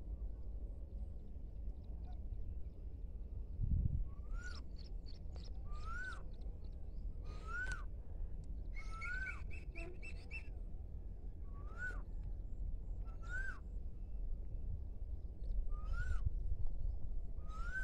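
Birds calling. From about four seconds in, one bird repeats a short call that rises and falls, every second or two, with harsher rasping calls beside it and a quick run of clicks in the middle. A steady low rumble runs underneath.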